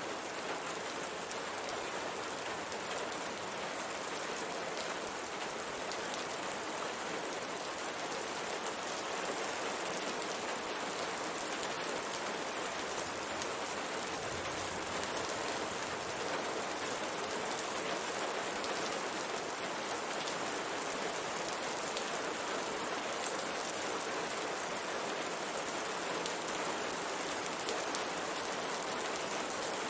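Steady rain falling on a window, an even hiss of rainfall with the patter of many drops striking the glass.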